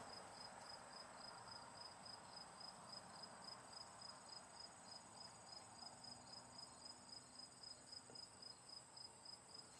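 Near silence with a cricket chirping faintly and steadily, about four chirps a second, in a high pitch.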